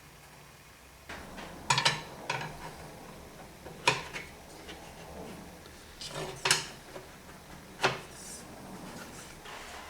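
Hard parts being handled and set down on a workbench: a series of separate sharp clacks and knocks, starting about a second in.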